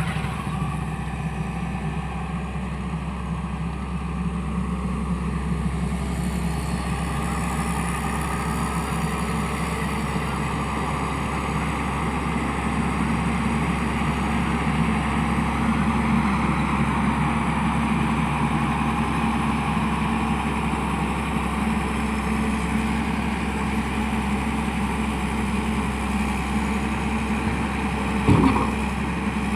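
Diesel engine of a Tata Hitachi excavator running steadily, growing a little louder in the middle. A short loud sound stands out near the end.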